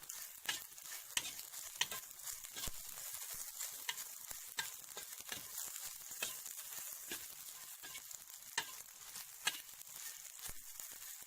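Young cicadas frying in a pan, sizzling steadily while being stirred, with irregular clicks and scrapes of the utensil against the pan.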